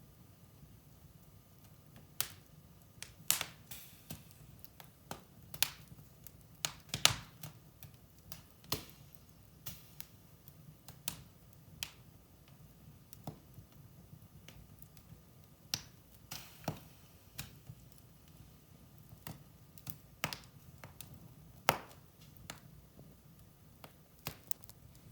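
Wood fire in a fireplace crackling, with irregular sharp pops and snaps, a few louder than the rest, over a faint low hiss.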